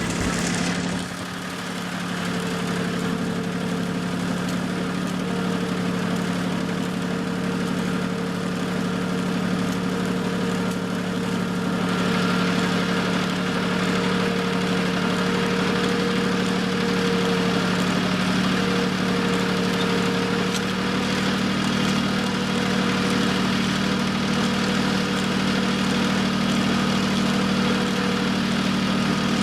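Tractor engine running steadily, getting a little louder with more noise about twelve seconds in.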